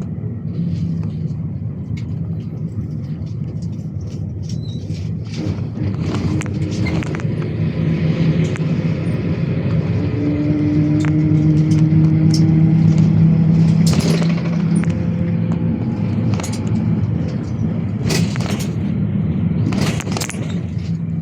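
GAZ-A68R52 City minibus heard from inside the cabin while driving: engine drone and road noise, the engine note swelling and rising a little about midway as it pulls, then easing off. Scattered knocks and rattles of the body over bumps.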